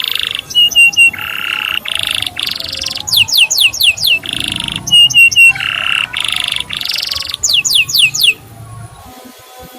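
Male canary singing: quick runs of falling 'cuit' whistles alternating with buzzy rattling trills and short clipped notes in threes, the phrases repeating, as on a tutor song for young canaries. The song stops about eight seconds in.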